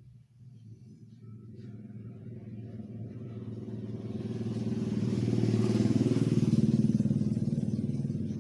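An engine's note that grows louder over several seconds, peaks, then begins to fade, like a motor vehicle passing.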